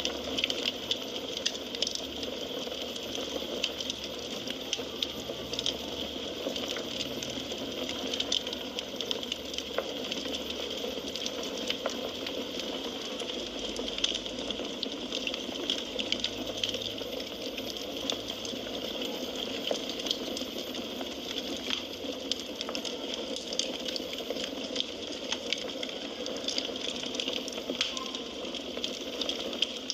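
Wood fire crackling: a steady hiss scattered with many small, sharp pops and snaps.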